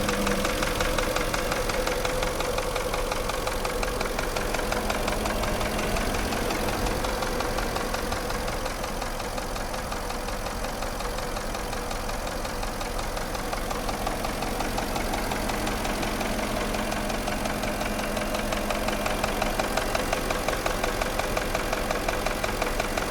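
Porsche Cayenne engine running with a rapid, steady knock from the piston group: typical of scored cylinder walls, as a rule on cylinders 5 and 6.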